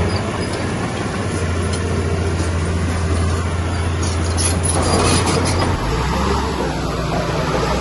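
Heavy diesel engine of an earthmoving machine running steadily, its low drone dropping in pitch about six seconds in as the engine slows. A stretch of metallic clatter comes over it between about four and five and a half seconds in.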